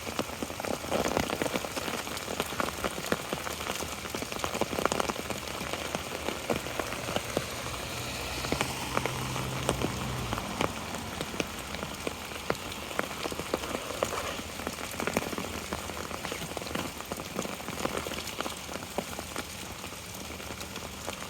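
Steady rain, the drops striking an umbrella overhead as dense, irregular ticks. A faint low hum joins in for a few seconds in the middle.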